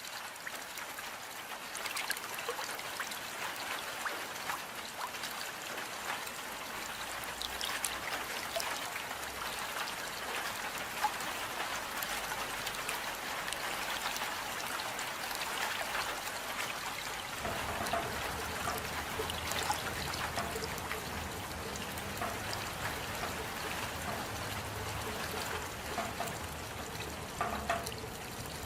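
Steady rain falling, with small drips and trickling water ticking through it. About two-thirds of the way in, a low rumble joins beneath the rain.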